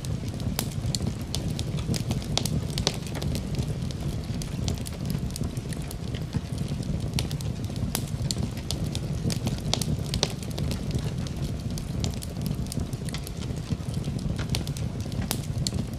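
Fire crackling in a fireplace: a steady low rumble of flames under frequent, irregular sharp pops.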